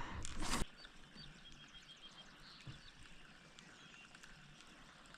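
A brief rustle in the first half-second, then small birds chirping faintly: short high notes, one run of several quick repeated chirps, over a quiet outdoor hush.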